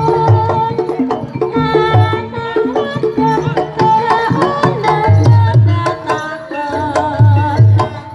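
Live traditional music for a lais performance: deep hand-drum strokes recur over a dense weave of melodic instruments.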